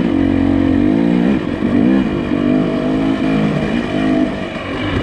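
Nissan Pathfinder SUV engine revving up and down as it is driven over a rough trail, its pitch rising and falling several times.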